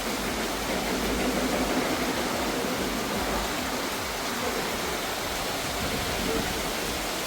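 Heavy rain pouring down hard, a continuous even hiss.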